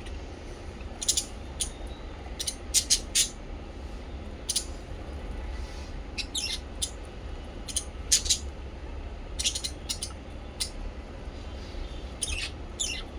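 Small pet parrots, lovebirds and budgies, chirping in short, sharp, high-pitched calls that come singly and in quick clusters of two or three, over a steady low hum.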